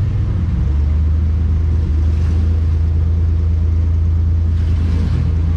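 Race truck's engine running at a steady, held speed: a loud, low, even drone.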